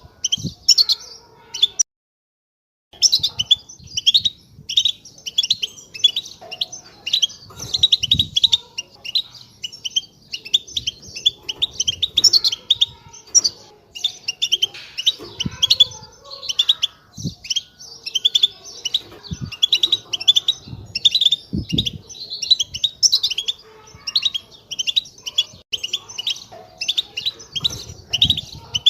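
European goldfinch giving a fast, continuous chattering twitter of short, high chirps, the 'batbata' call used to prompt silent goldfinches to sing. It breaks off for about a second near the start, then carries on.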